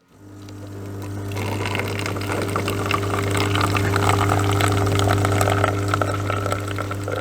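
A small electric pump humming steadily while water runs through it. The hum starts abruptly, and the water sound builds over the first second or two.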